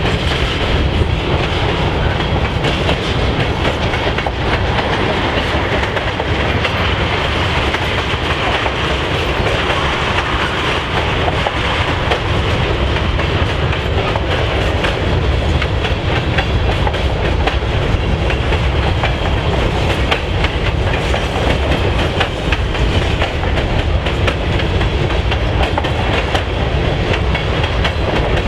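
A train rolling past steadily, its wheels clicking over the rail joints.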